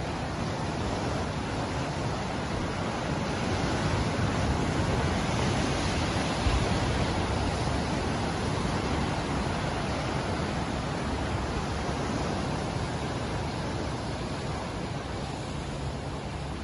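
Ocean surf washing steadily, swelling a few seconds in and slowly easing off.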